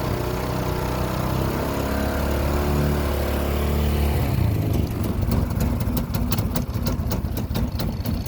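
2004 Arctic Cat 300 ATV's single-cylinder four-stroke engine running with its lights off. It runs evenly at first, then from about halfway it stumbles with irregular sharp pops: the misfire that goes away when the lights are switched on.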